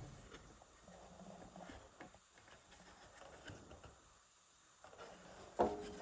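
Faint scuffing and small knocks of a track saw and its guide track being shifted and set on a door, with one sharp knock that rings briefly near the end.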